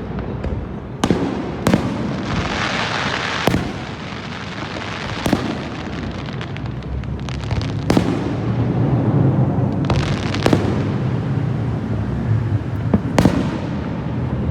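Aerial fireworks shells bursting overhead: about seven sharp bangs a second or two apart, with a hissing crackle of a bursting shell between two and three and a half seconds in.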